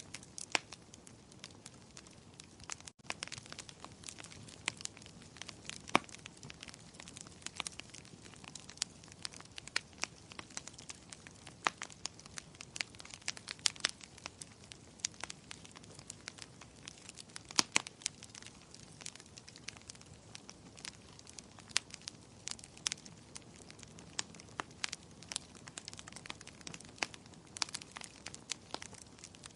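Wood fire crackling in a fireplace: frequent, irregular sharp pops and snaps over a soft, steady hiss.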